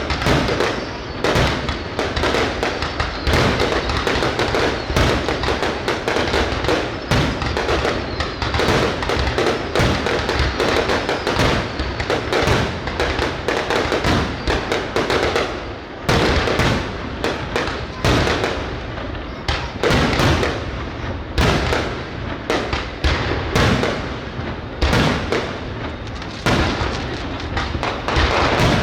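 Aerial fireworks bursting in a dense, continuous barrage of overlapping bangs with no pauses.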